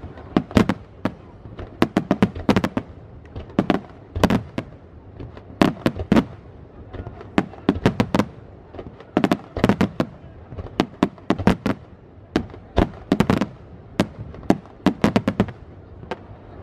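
Aerial firework shells bursting close overhead, a rapid, irregular barrage of loud bangs, many coming in quick clusters, each with a short echoing tail.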